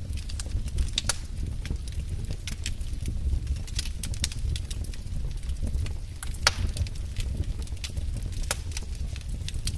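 Logs burning in a fireplace, crackling with irregular sharp pops over a steady low rumble; the loudest pop comes about six and a half seconds in.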